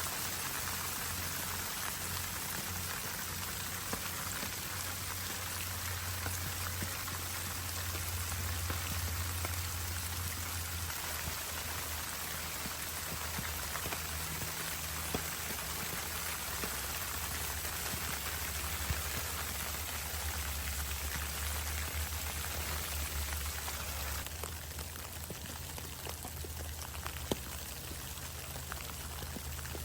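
Steady rain pattering on a surface, a dense patter of many fine drop ticks with a low rumble underneath.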